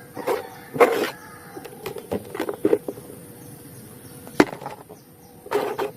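Toys knocking and scraping against each other as they are handled and gathered into a basket: irregular knocks, with one sharp click about four and a half seconds in.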